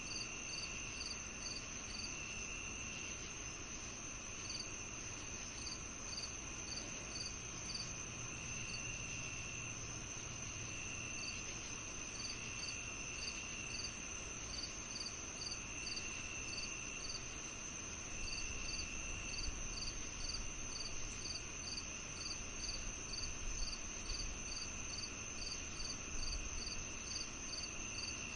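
A summer-evening chorus of crickets and other insects: one steady high trill, a regular chirping about two or three times a second, and a lower trill that comes and goes in spells of a second or so. A faint low rumble lies underneath.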